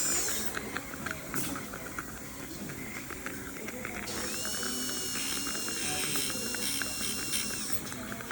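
Dental handpiece used to polish a composite bonding: its high whine stops just after the start, followed by rapid mechanical clicking, then it spins up again with a rising whine at about four seconds, runs steadily and stops shortly before the end.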